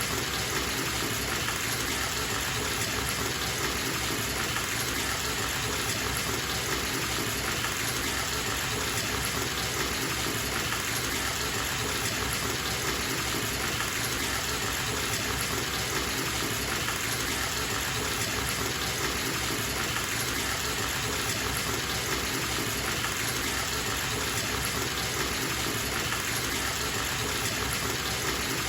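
Bathtub tap running steadily, water pouring into the tub as it fills.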